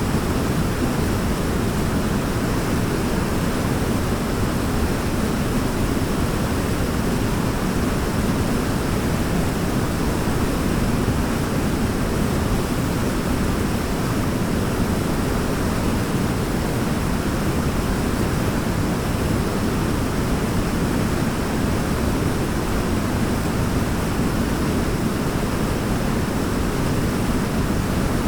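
Waterfall: a steady rush of falling water, fullest in the low range, with no change in level.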